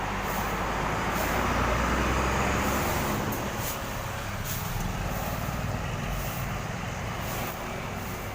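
Diesel engine of an intercity coach running close by, with a steady low hum. It grows louder about a second in, then slowly eases off.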